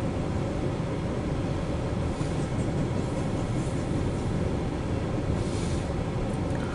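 CSX double-stack intermodal freight train rolling past, a steady rumble of wheels on the rails, heard from inside a car. A few brief, faint high-pitched sounds rise above the rumble about two, three and a half and five and a half seconds in.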